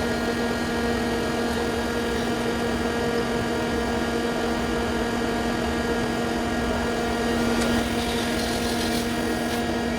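Mazak QT30 CNC lathe's spindle drive running at a steady speed with a constant humming whine, the abnormal noise taken for a seizing bearing on the intermediate shaft. A short hiss comes in near the end.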